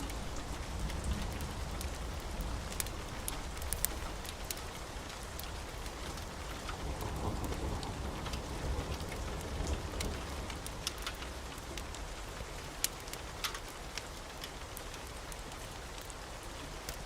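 Steady rain falling, with a low rumble of thunder underneath that swells somewhat in the middle, and scattered sharp clicks throughout.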